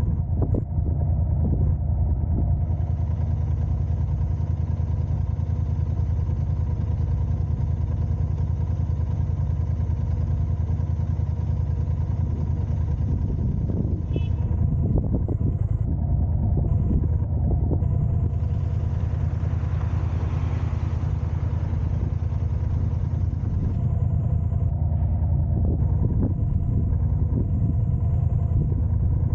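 Steady low road and engine rumble of a car being driven, with a constant hum running through it. A brief swell of hiss comes about two-thirds of the way in.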